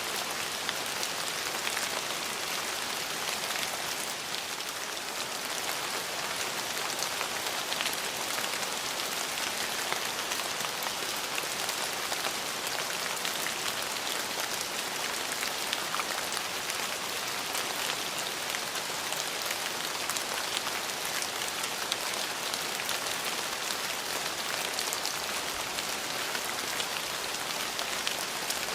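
Steady rain falling, a dense hiss of drops with many small individual drop ticks, holding an even level throughout.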